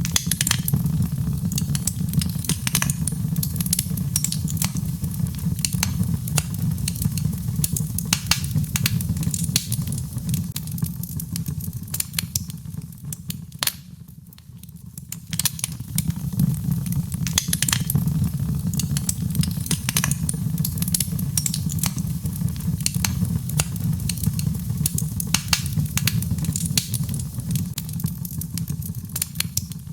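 Birch logs burning in a fireplace, crackling with frequent sharp pops over a low steady rumble. The crackling thins out briefly about halfway through.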